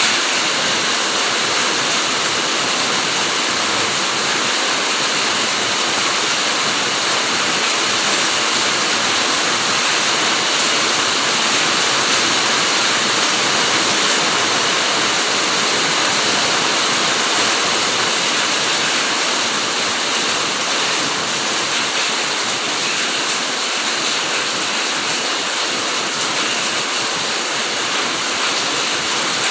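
Steady, heavy rain falling on a fruit garden, a dense even hiss with no individual drops standing out.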